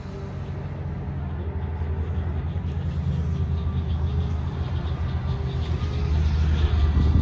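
Supercharged V8 engine of a 2022 Shelby F-150 off-road pickup running with a low, steady note that grows steadily louder.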